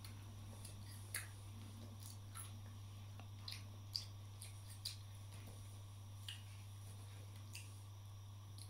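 Faint chewing of a crunchy celery and apple salad: a handful of small, sharp crunches spaced irregularly, over a steady low hum.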